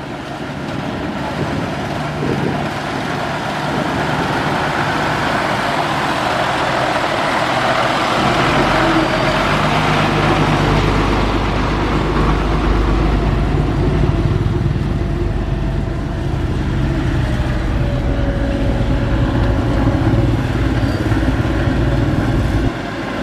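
Diesel engine of heavy earthmoving machinery running steadily, with a deep rumble that strengthens about eight seconds in.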